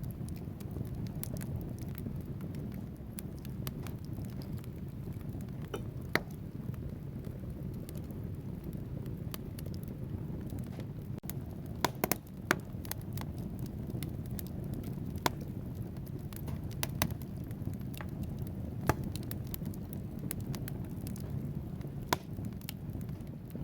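Wood fire burning in a fireplace: a steady low rumble of the flames with frequent sharp crackles and pops from the burning logs, a few louder pops standing out.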